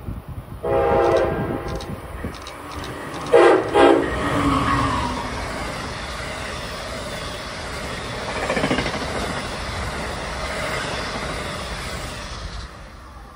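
Amtrak passenger train's horn sounding one longer blast, then a shorter, louder one as the train comes in at speed. The stainless-steel Amfleet cars then pass close by with a steady rush and clatter of wheels on rail that falls away near the end.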